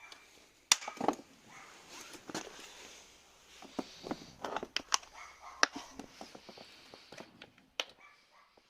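Handling noise from a petrol chainsaw being examined: an irregular run of sharp clicks and knocks of its plastic covers and controls, with no engine running.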